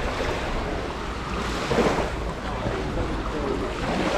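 Sea surf washing on a sandy beach, a steady wash of noise, with wind buffeting the microphone.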